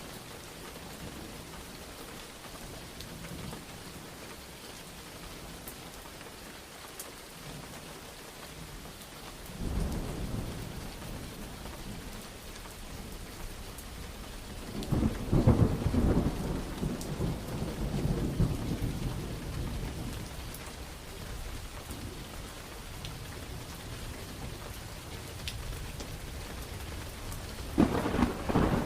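Steady rain falling, with rolls of thunder: a low rumble about a third of the way in, a louder, longer rumble about halfway, and a sharper crack of thunder near the end.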